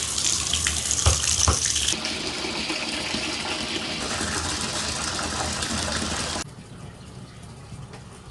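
Water running hard from a tap, with two short knocks about a second in. It cuts off abruptly about six seconds in, leaving a faint low background.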